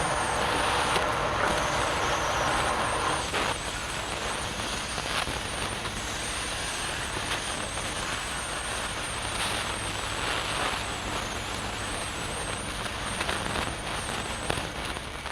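Woodturning lathe running, a steady machine noise with a wavering high whine and scattered sharp clicks from the work.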